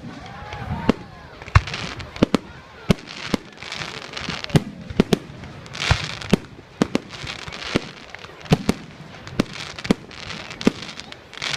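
Fireworks going off: an irregular string of sharp bangs, about two a second, with hissing and crackling between them.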